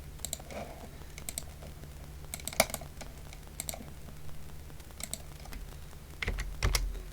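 Computer keyboard keys tapped in scattered clicks and short runs over a steady low hum, with a heavier knock near the end.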